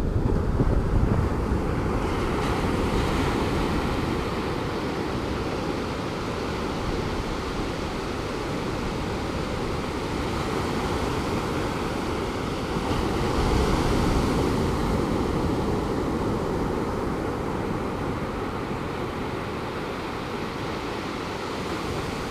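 Pacific Ocean surf washing steadily onto the beach, swelling louder near the start and again about two-thirds of the way through, with some wind on the microphone.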